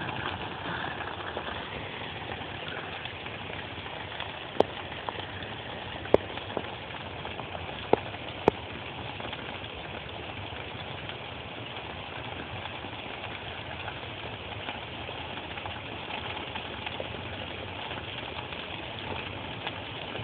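Hail falling in a steady patter, with four sharp ticks between about five and nine seconds in as stones strike close by.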